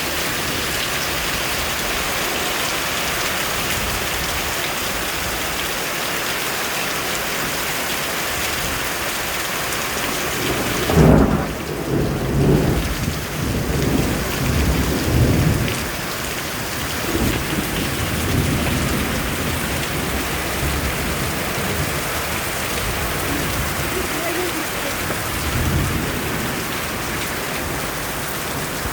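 Steady rain, with a clap of thunder about eleven seconds in that rumbles on for several seconds, and fainter rolls of thunder later.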